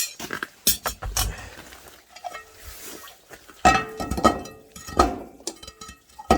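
Metal parts of a coal-briquette boiler clanking as they are handled: a string of sharp metallic knocks, several with a brief ring, as the lids are set in place over the briquettes.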